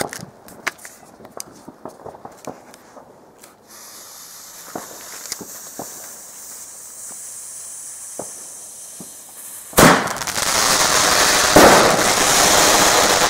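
Consumer fireworks going off: scattered sharp pops and a faint steady hiss, then about ten seconds in a loud bang that opens into a dense, continuous crackle, with another loud peak a couple of seconds later.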